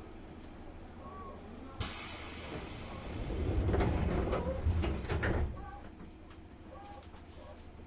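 Sudden hiss of compressed air on a 205 series electric train standing at a platform, about two seconds in, then a low rumble with several knocks as the sliding doors close.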